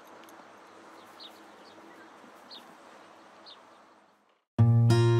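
Faint outdoor background with short, high bird chirps about once a second, fading out. After a brief silence, acoustic guitar music starts loudly near the end.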